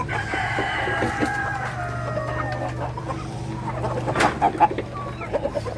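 Rooster crowing once, a long call of about three seconds that falls slightly in pitch, followed by a few short clucks and knocks around four seconds in.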